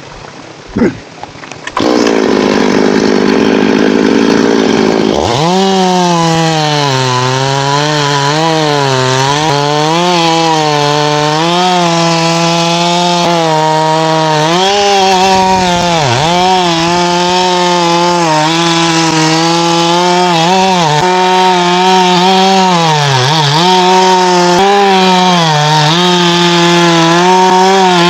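Chainsaw starts cutting about two seconds in and runs at full throttle through thambakam wood, its engine note dipping and recovering again and again as the chain bites and frees in the cut.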